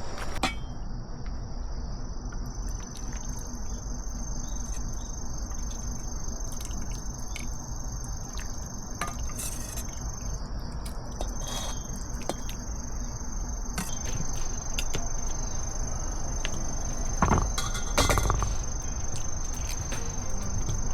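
Crickets singing in a steady chorus, a continuous high-pitched trill, over a low rumble of outdoor background noise. A couple of knocks near the end.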